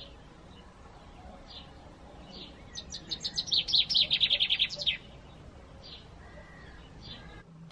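Songbirds singing: scattered short high chirps, with a fast run of rapidly repeated notes lasting about two seconds in the middle. The sound cuts off abruptly near the end.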